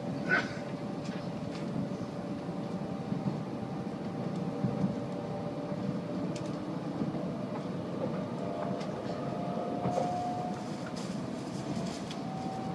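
Tokaido Shinkansen bullet train running, heard from inside a passenger car: a steady rumble of the wheels and running gear with a few sharp clicks. A faint whine climbs a little in pitch in the second half.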